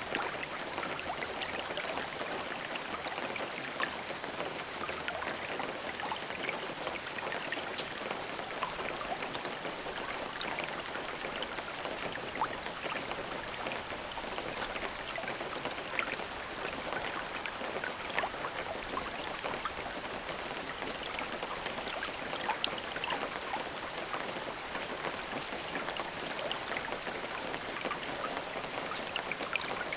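Steady rain falling, an even hiss with many individual drops pattering and ticking on a surface, no thunder.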